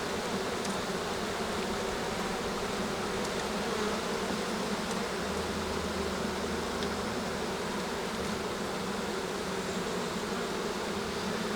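Honey bees buzzing steadily in large numbers around an opened hive.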